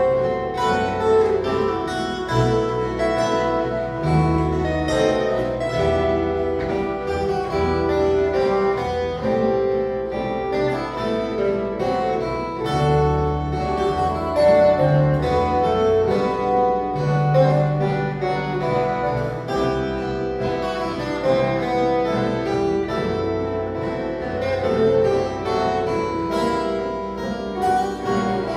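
An ensemble of violas caipiras, the ten-string Brazilian folk guitars, playing an instrumental piece: many bright plucked notes over a low bass line.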